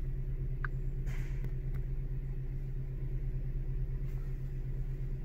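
Steady low hum of the 2005 Toyota Sienna's 3.3-litre V6 running, heard from inside the cabin, with a short faint beep under a second in.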